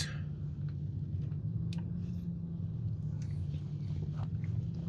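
Steady low hum with a few faint, short clicks and taps scattered through it.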